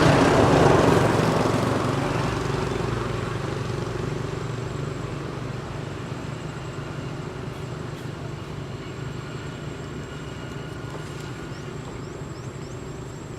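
A motor vehicle passing close by and then fading away, loudest at the start and dying down over about ten seconds.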